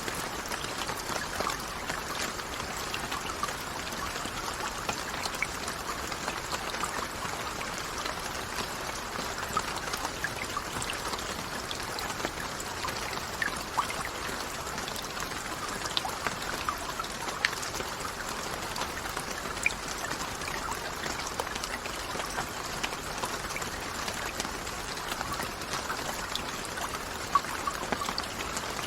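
Steady rain with many individual drops ticking sharply through an even wash of falling water.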